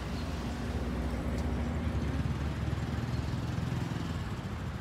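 Vehicle engine running close by, a steady low rumble.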